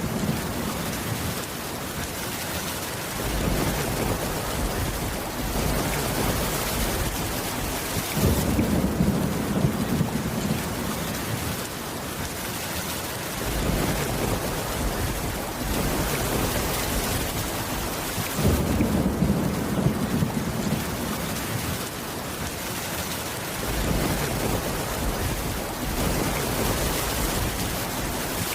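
Steady heavy rain with a low thunder rumble underneath. The sound shifts abruptly about every five seconds as the low rumble swells and eases.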